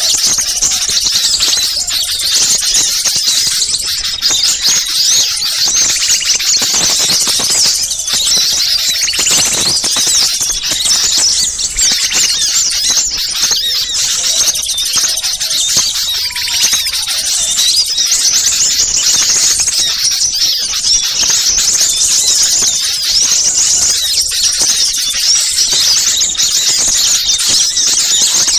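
A dense, continuous chorus of many small songbirds chirping and calling at once, high-pitched and frantic. It is a bird-lure recording of agitated, noisy small birds ('burcil ribut'), used to draw wild small birds in.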